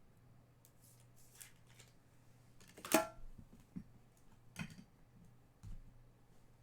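Trading cards being handled and flipped through, giving a few soft, short scrapes and taps, the sharpest about three seconds in, over a faint steady hum.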